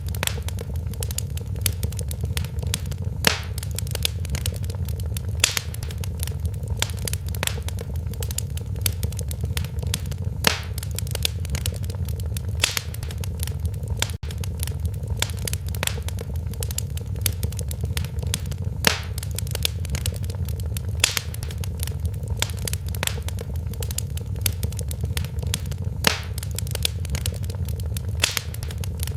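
Fire in a fireplace crackling steadily, with a sharp pop every second or two over a low, even rumble of burning.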